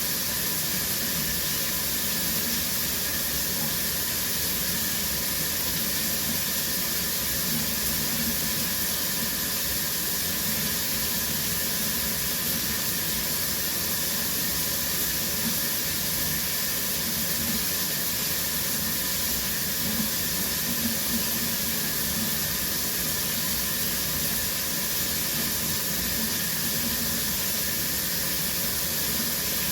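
Shower running steadily: water spraying in an even, unbroken hiss.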